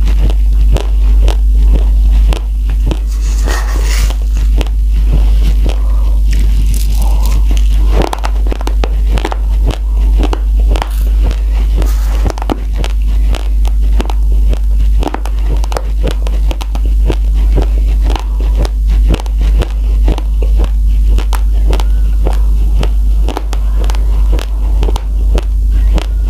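Close-miked crunching of raw, uncooked rice grains being bitten and chewed: a steady run of sharp crunches. A steady low hum lies underneath.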